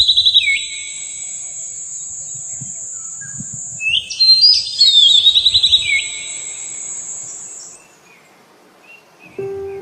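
Oriental magpie robin singing: two phrases about four seconds apart, each a quick trill that drops to a lower whistled note, over a steady high-pitched tone that stops near the end.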